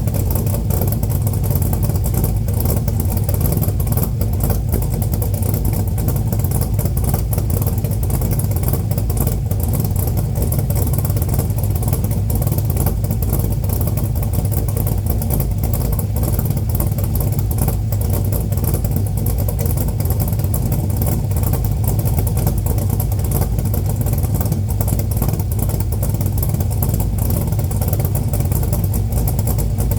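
Chrysler 440 big-block V8 idling steadily after a cold start, through dual exhaust with no catalytic converters. A loud, even, low idle note with no revving.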